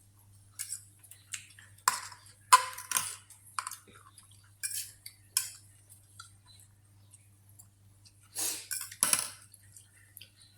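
Spoon and fork clinking and scraping on a plate while eating: a run of short clinks, then a longer scraping clatter about eight and a half seconds in.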